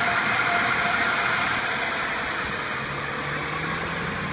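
Car-wash air-dryer blowers heard from inside the car: a steady rushing of air against the car that eases off slightly about halfway through.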